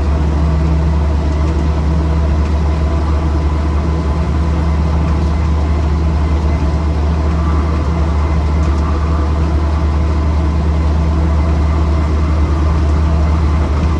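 1979 Land Rover Series 3 Lightweight driving at steady engine speed, heard from inside its unsoundproofed cab. The four-cylinder engine drones evenly, mixed with road noise from its military tyres.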